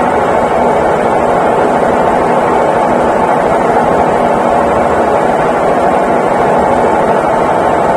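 Consul Facilite 11 kg (CWG11) top-loading washing machine running with a steady, even mechanical hum that does not break or change.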